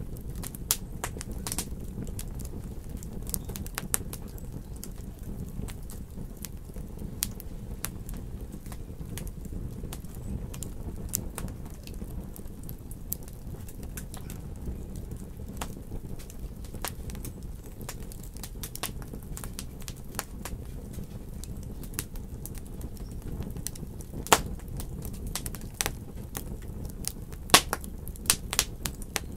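Wood fire in a fireplace crackling, with a steady low rumble of burning and frequent small snaps. A few louder pops come near the end.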